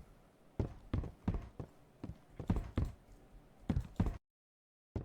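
A series of short, hollow knocks, about ten unevenly spaced over four seconds, then an abrupt cut to dead silence with one last knock at the end.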